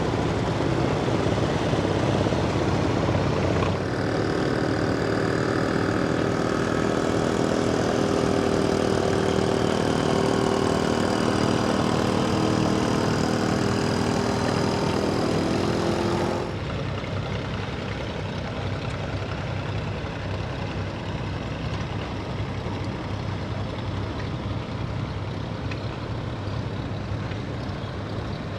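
Engine running steadily, with a steady droning tone over it; about sixteen seconds in the sound changes abruptly to quieter, duller running.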